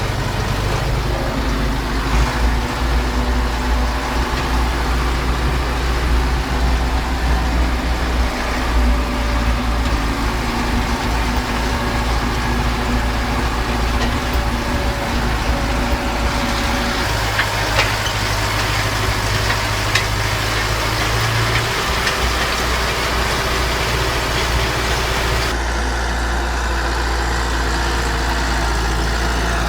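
Zetor 9540 tractor's diesel engine running steadily while pulling a stubble cultivator. Its tone shifts about halfway through and again near the end.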